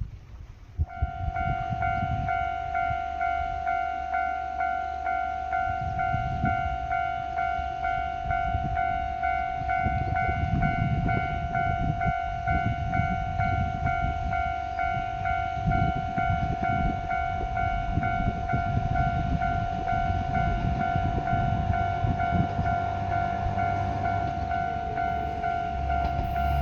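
Railway level crossing alarm ringing: a steady electronic ding repeating about twice a second, starting about a second in. A low rumble runs underneath.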